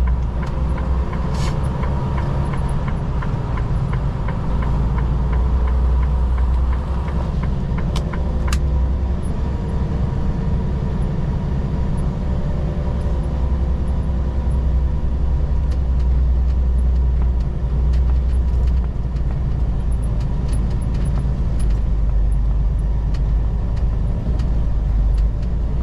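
Semi truck's diesel engine and road noise heard from inside the cab while driving, a steady low drone, with a few sharp clicks about eight seconds in.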